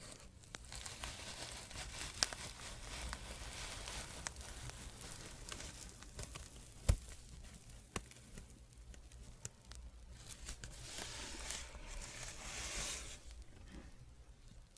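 Soft scratching close to an ASMR microphone: a rustling, scratchy hiss that swells and fades, with a few sharp clicks, the loudest about seven seconds in.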